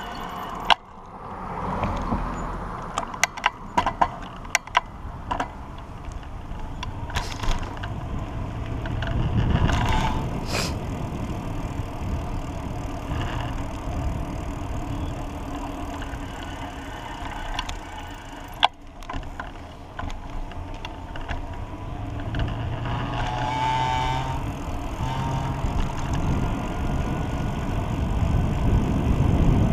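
Street traffic heard from a moving pedal bike: cars passing over a steady rush of road and wind noise, with scattered sharp clicks and knocks in the first half. A short whining tone comes about three-quarters of the way through.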